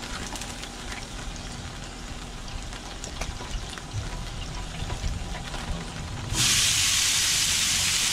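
Olive oil crackling faintly on a hot Blackstone flat-top griddle. About six seconds in, chopped onions, tomatoes and peppers are dumped onto it and set off a sudden loud, steady sizzle.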